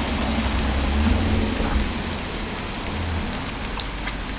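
Steady hissing and bubbling of a cast-iron cauldron of seafood ramen boiling over a wood fire, with scattered small crackles and a low rumble.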